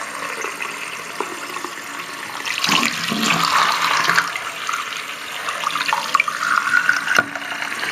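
Cold water running from a bathroom tap and splashing over a block of frozen fish held under it. The splashing grows louder for a couple of seconds about three seconds in, and there is a single sharp click near the end.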